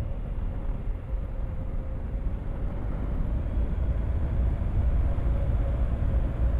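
Motorcycle under way, its engine running with a faint steady hum under heavy wind rumble on the microphone; it gets a little louder about halfway through.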